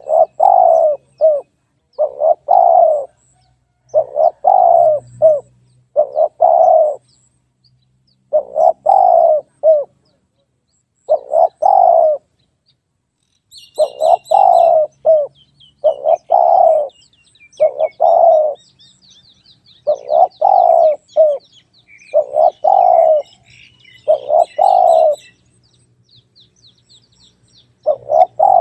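Spotted dove cooing over and over: loud phrases of about three short coos each, repeated every couple of seconds with short pauses. Another small bird chirps faintly and quickly at a much higher pitch through the middle part.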